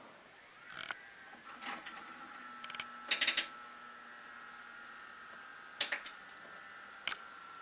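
VCR tape mechanism clicking and clunking several times over the steady whine of its motor, the loudest clicks about three seconds in.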